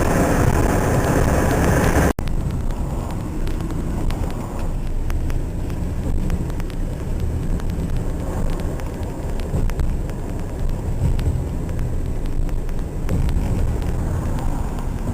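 Steady in-car noise that cuts off abruptly about two seconds in. After that, a low, uneven rumble of strong gusty wind buffeting the microphone in a snowstorm, with faint ticks.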